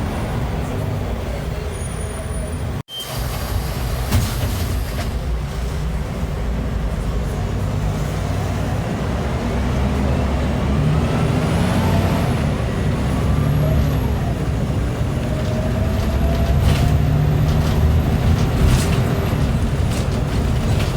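Scania L94IA articulated bus's diesel engine running under load, with whines that rise in pitch while it gathers speed and grows slowly louder. The sound drops out for an instant about three seconds in.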